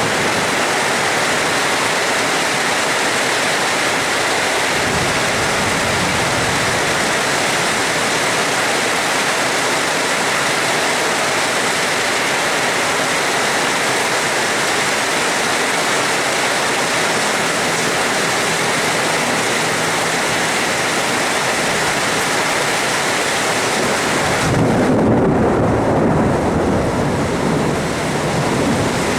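Steady rain hissing evenly, with low thunder rumbling under it. Near the end a deeper rumble swells for a few seconds while the rain's hiss thins.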